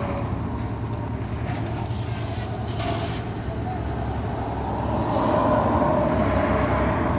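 Ducati 848's L-twin engine with a Termignoni exhaust running on a cold start, getting a little louder and higher about five seconds in.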